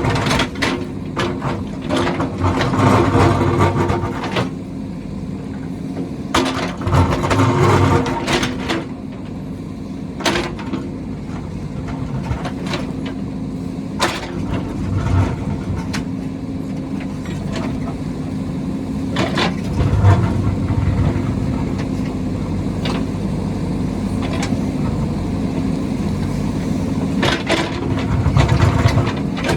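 Diesel engine of heavy construction machinery running steadily, growing louder for a few seconds at a time, with sharp knocks and clanks every few seconds.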